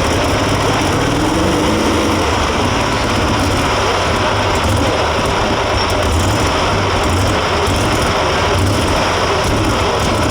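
Unlimited super stock pulling tractor's turbocharged diesel engine running loud and steady at full power, dragging the sled down the track.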